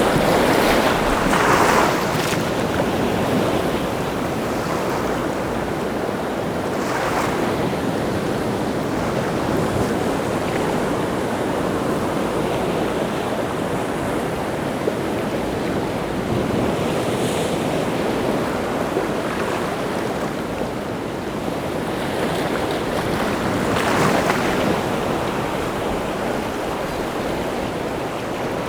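Rough sea surf: waves breaking and washing onto the shore without pause, with louder breakers in the first two seconds, about seven seconds in and near twenty-four seconds in.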